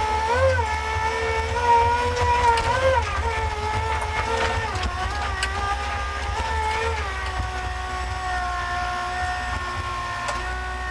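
The four-cylinder Kubota diesel engine of a Tata Hitachi Shinrai Prime backhoe loader running with a deep rumble. Its pitch wavers up and down through the first seven seconds or so, then holds steady.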